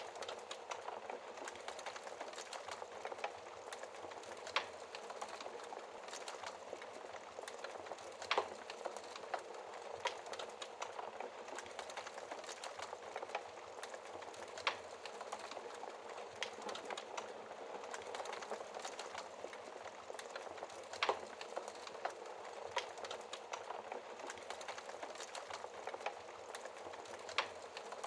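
Wood fire burning in a fireplace: a steady soft hiss with constant faint crackling and a few sharp louder pops scattered through.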